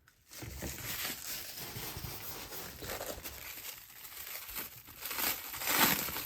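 Packing material crinkling, rustling and tearing as a wrapped crystal is unwrapped by hand, getting louder near the end.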